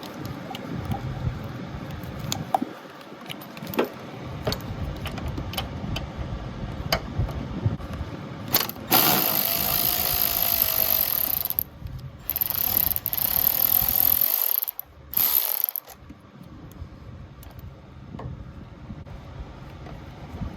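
Ratchet clicking in scattered strokes, then an electric ratchet running in three bursts about halfway through, its motor whining under the noise of the drive.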